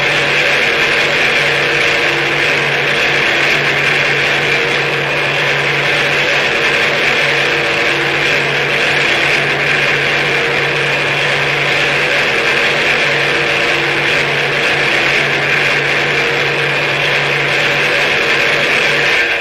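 Harsh noise music: a dense, unbroken wall of hissing electronic noise, loudest in the upper middle range, over a steady low drone that cuts out right at the end.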